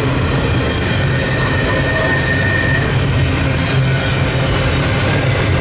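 Double-stack intermodal freight cars rolling past: a loud, steady rumble of steel wheels on rail. From about a second in, a faint high tone is held for around two seconds.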